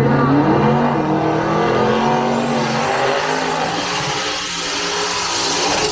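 Race car engine accelerating, its pitch rising over the first couple of seconds and then holding, over a steady low hum.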